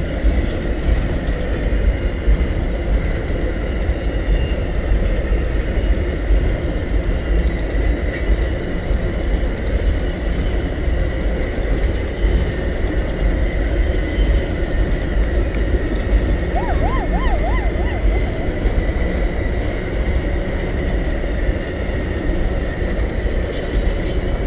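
Cars of the Amtrak Auto Train rolling past at speed: a steady, loud rumble of steel wheels on rail, with a faint, thin, steady squeal above it.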